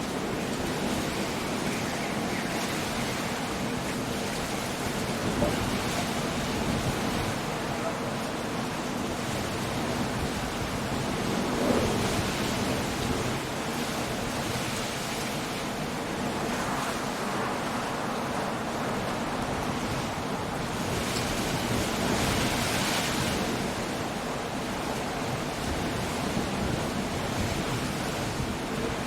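Coastal storm: a steady rush of sea waves breaking, with wind and rain, the surf swelling several times and loudest a little over two-thirds of the way through.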